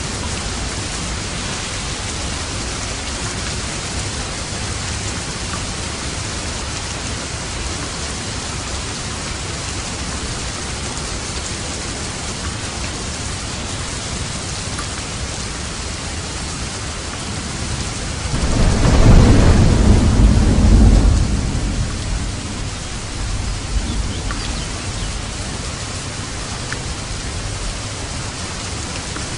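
Steady heavy rain falling, with a roll of thunder that swells about 18 seconds in, rumbles for around three seconds and fades away.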